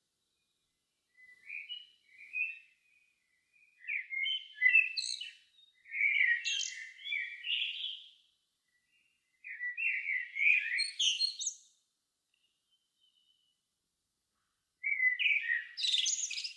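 A songbird singing in separate warbled phrases of one to two seconds, with short pauses between them.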